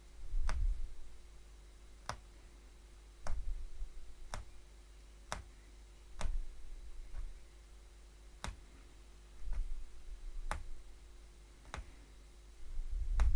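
Hollow punch needle stabbing repeatedly through fabric stretched taut, making a sharp click about once a second, some with a soft low thud.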